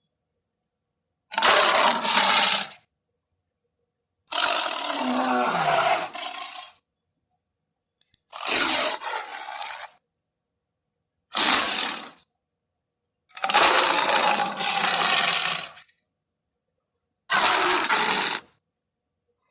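Six lion roar sound effects played one after another, each lasting one to two and a half seconds, with dead silence between them.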